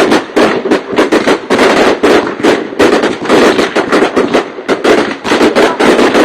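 Fireworks display bursting in rapid succession: a dense, unbroken run of loud overlapping bangs and crackles, several a second.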